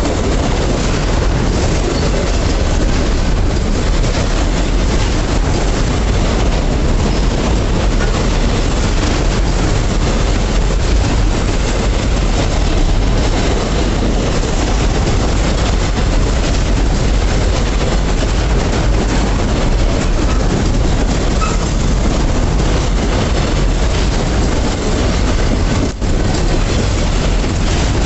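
Freight train passing close by, its wagons rolling over the rails in a loud, steady noise with some clickety-clack.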